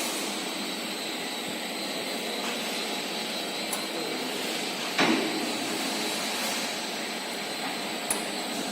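Steady machine noise from a medium frequency induction quenching line for steel bar, with a faint high steady tone above it. A single metallic knock rings out about five seconds in, and a smaller click comes near the end.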